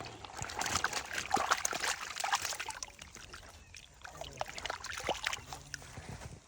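Water splashing and trickling in quick crackling strokes, busiest over the first half and thinning out after about three seconds.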